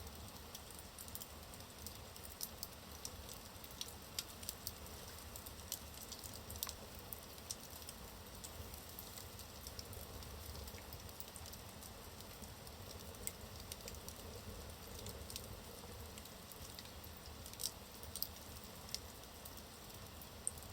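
Wood fire in a fireplace crackling: a soft steady hiss with irregular sharp snaps and pops from the burning logs, a few louder ones scattered through.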